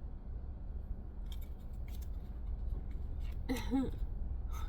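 Tarot cards being handled: a few light clicks and rustles over a steady low hum. About three and a half seconds in comes a short murmured "mm-hm" from the reader.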